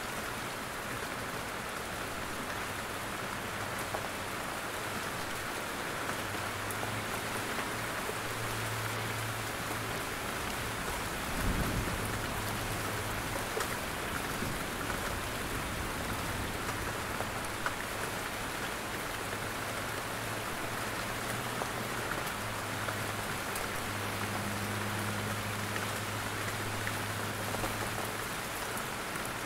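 Steady rain falling in a forest, with many small drops pattering on leaves and ground. A single low thud comes about a third of the way through.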